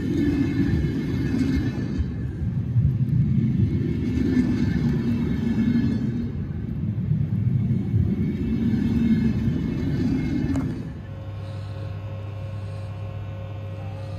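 Double-decker sleeper train rolling slowly alongside the platform, a low rumble that swells and fades. About eleven seconds in it changes to the quieter steady hum of a VR Sr3 electric locomotive standing with its pantograph up, a low drone with a higher tone over it.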